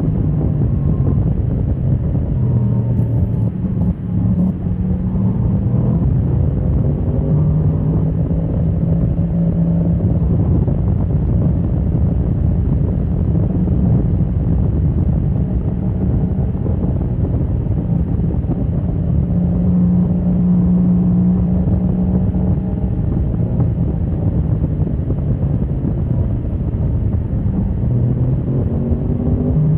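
Motorcycle engine running hard on a race track, heard from onboard; its pitch climbs and drops in steps with throttle and gear changes throughout.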